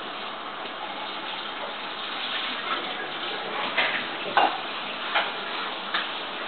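Steady running water, like a tap, with four or five short sharp sounds from about halfway through.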